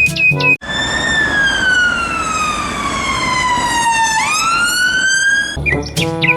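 Ambulance siren wailing: one long tone that slides slowly down for about three and a half seconds, then sweeps quickly back up, over a rushing noise.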